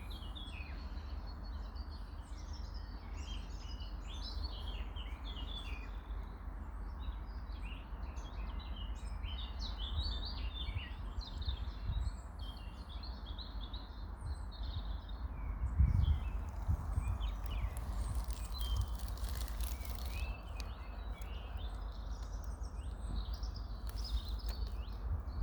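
Birds chirping continuously in many quick overlapping calls, over a steady low rumble, with a louder low thump about two-thirds of the way through.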